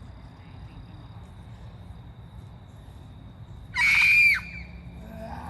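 A short, high-pitched scream about four seconds in, lasting about half a second and dropping in pitch as it ends, over a low steady rumble.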